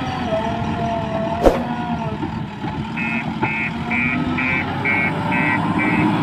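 JCB backhoe loader's diesel engine running with a wavering whine, a single sharp knock about a second and a half in, and from about three seconds in a reversing alarm beeping about twice a second.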